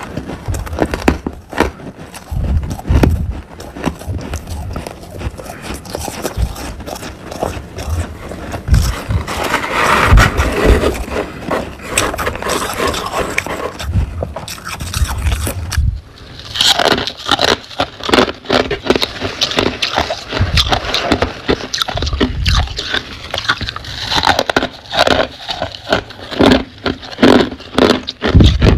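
Crunchy humidifier frost being scraped and bitten: a dense, continuous run of crackling crunches, which turn brighter and crisper about halfway through.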